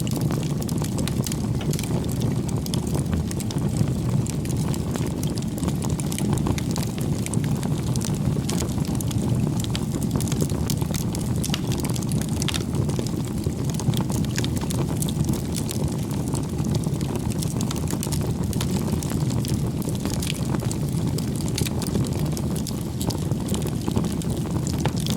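Wood bonfire burning: a steady low rush of flames with frequent crackling and popping of the burning wood throughout.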